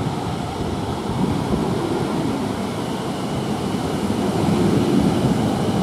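South Western Railway Class 444 electric multiple unit departing, its coaches rolling past close by in a steady rumble of wheels on rails, with a faint steady high whine above it.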